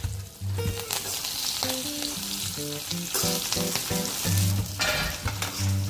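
Sabudana (tapioca pearls) sizzling in hot oil in a kadhai while being stirred and tossed with a metal slotted ladle, a steady frying hiss with scraping of the ladle against the pan.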